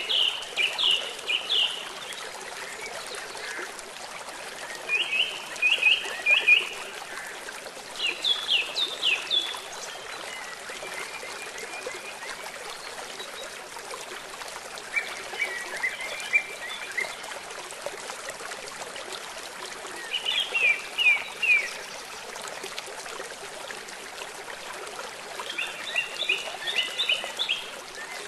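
Steady rush of running water with a bird calling every few seconds, each time a short phrase of three to five quick rising chirps, six phrases in all.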